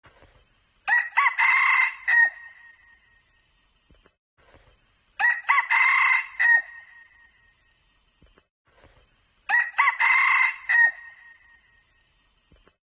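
Red junglefowl rooster crowing three times, about four seconds apart. Each crow is short and clipped, lasting just over a second.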